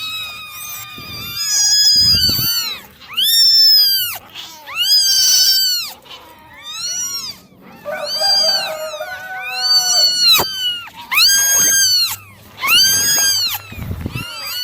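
Several kittens meowing over one another, a steady stream of high-pitched calls that rise and fall in pitch. Two brief low bumps come about two seconds in and again near the end.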